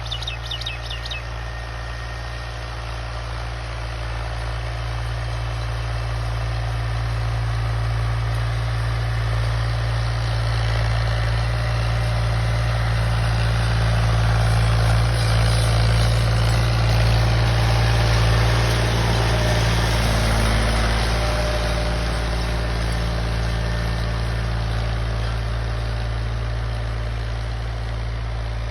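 Tractor engine running steadily while pulling a plough, growing louder toward the middle and then easing off a little.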